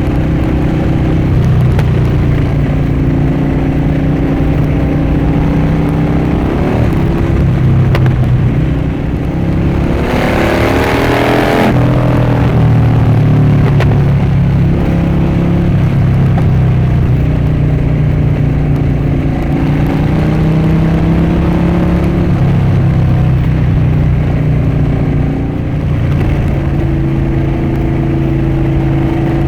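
Harley-Davidson Dyna Switchback's V-twin engine and exhaust running under way, its pitch stepping up and down with throttle and gear changes. Around ten seconds in, a louder rush with a sweeping pitch lasts about two seconds.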